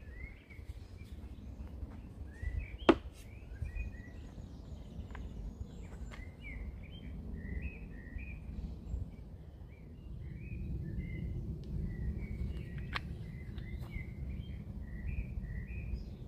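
Small birds chirping and singing over a low steady rumble that grows louder about ten seconds in, with one sharp click about three seconds in.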